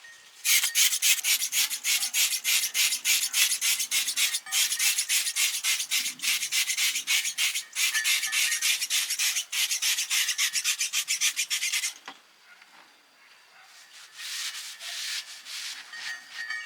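Rapid hand-worked rubbing strokes on metal, an abrasive scrubbing of the kind used to strip rust, going steadily for about eleven seconds and then stopping. A shorter, fainter run of rubbing follows near the end.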